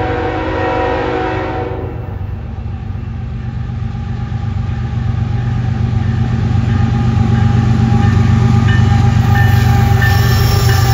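Freight train's diesel locomotive horn sounding a chord, cutting off about two seconds in. The locomotives' engines then rumble steadily louder as the train comes around the curve and draws near.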